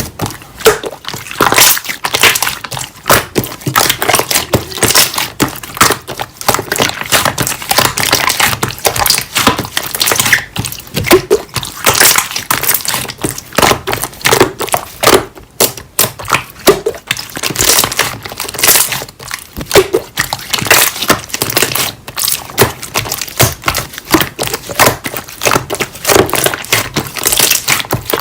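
Slime being squished and pressed by hand, a steady run of crackling clicks and pops.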